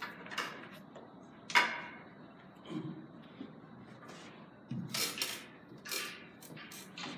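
Carom billiard balls clicking sharply, with one loud click about a second and a half in and a run of clicks near the end. Two duller low thuds come between them.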